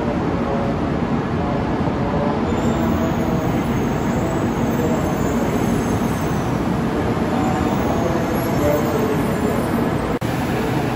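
Kyushu Shinkansen train pulling slowly into the station platform: a steady rumble of wheels and running gear with faint humming tones. The sound drops out for a split second about ten seconds in.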